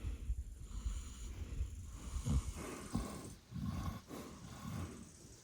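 A farm animal breathing, with several short, noisy breaths in the second half over a low rumble.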